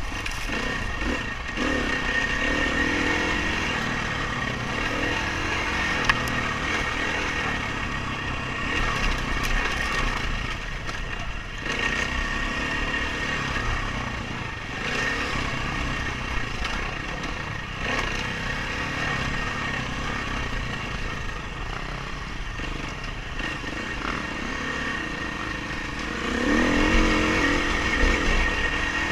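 Dirt bike engine revving up and down as it is ridden, rising and falling in pitch, with a surge in revs near the end.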